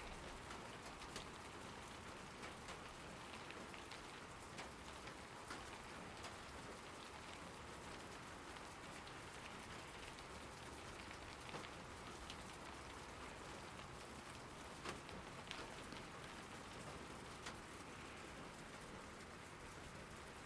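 Steady rain falling, with scattered sharper taps of individual drops striking a surface close by.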